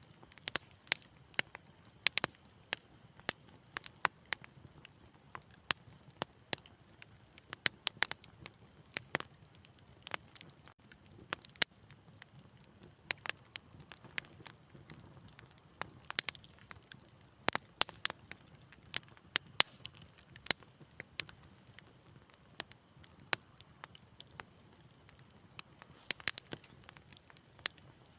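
Wood fire crackling in a fireplace: irregular sharp pops and snaps, several a second, over a faint low rumble.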